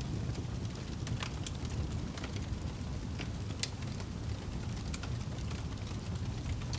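Wood fire crackling: scattered sharp pops and snaps over a steady low rumble, the loudest snap a little past the middle.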